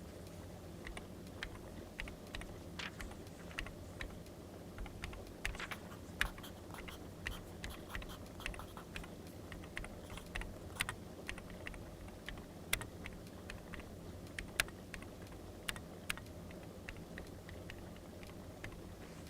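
Crackling wood fire and paper-and-writing sounds played together as study white noise: irregular sharp crackles and clicks, a few a second, over a steady low hum.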